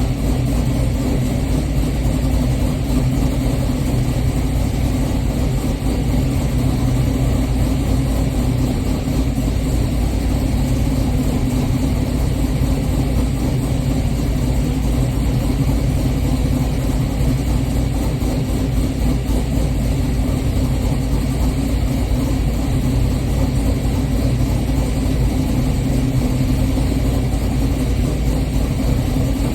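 A 6.0-litre LS V8 swapped into a G-body Cutlass idling steadily, with no revving.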